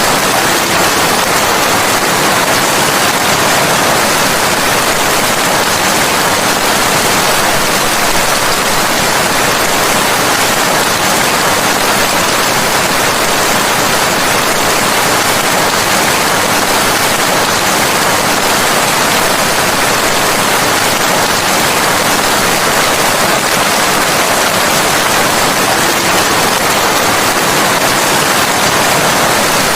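Steady, dense rain falling, a constant hiss with no breaks or changes.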